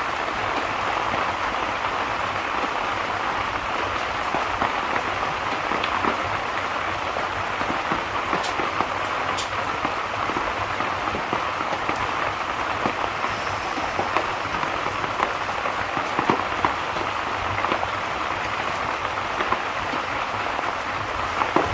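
Steady rain falling, an even hiss with scattered small ticks and clicks through it.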